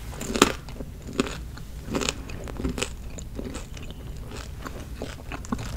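Close-miked chewing of food: an irregular run of sharp, crisp crunches as it is bitten and chewed right at the microphone, the loudest about half a second in.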